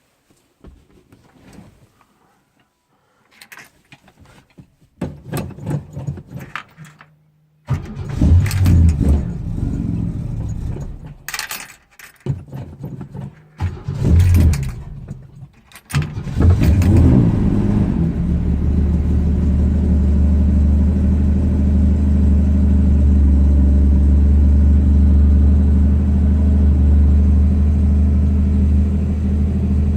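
Keys jangling and clicking, then the engine of a '66 car cranked from cold in several uneven bursts before it catches about halfway through, revs briefly and settles into a steady idle.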